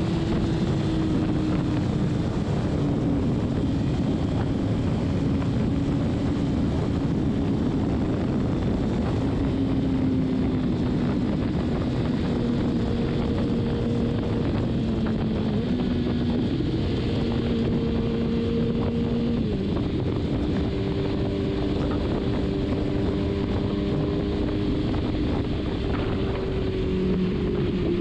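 Kawasaki Ninja ZX-6R inline-four engine running at steady highway cruise. Its note shifts in pitch a few times as speed changes, under constant wind rush on the microphone.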